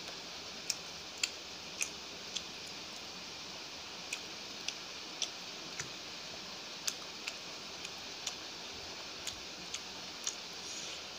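Wet mouth clicks and smacks of someone chewing food, about two a second in short runs with brief pauses, over a steady hiss.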